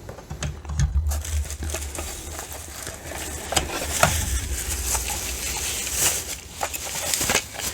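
Packaging rustling and crinkling with scattered clicks and knocks as plastic vacuum cleaner parts are handled and unpacked, over a low background rumble.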